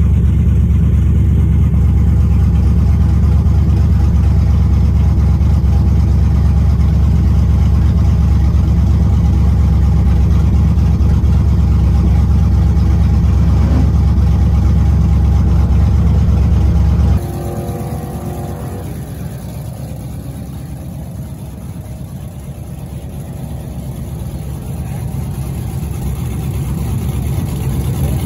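A vehicle engine running at a steady speed, loud and deep, for about seventeen seconds. The sound then cuts off abruptly to a quieter engine whose pitch sinks and then climbs again near the end.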